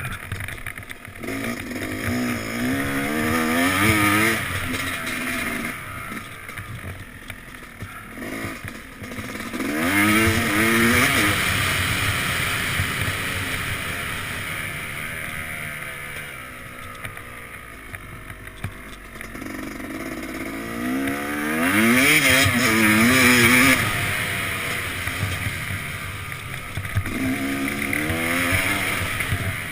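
Yamaha YZ250X two-stroke dirt bike engine revving up hard four times and falling back off the throttle between, as the bike accelerates and shifts through the gears. The rider has just said the air-fuel mixture screw was left too closed.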